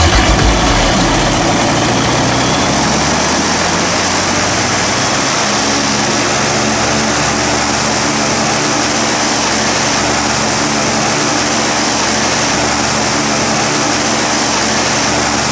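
A steady engine running, with a low hum under a loud hiss that holds level throughout.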